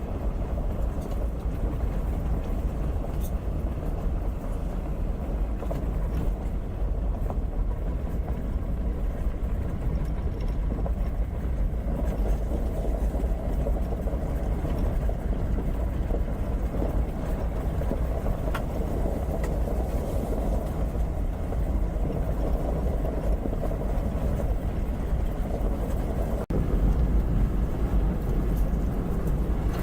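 Car on the move: steady engine and road rumble, with a short break about 26 seconds in.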